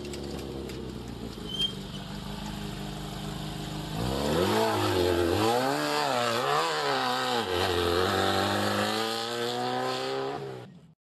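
Air-cooled VW flat-four of a class 5/1600 Baja Bug race car running steadily. About four seconds in it is revved hard up and down several times, then climbs steadily in pitch near the end.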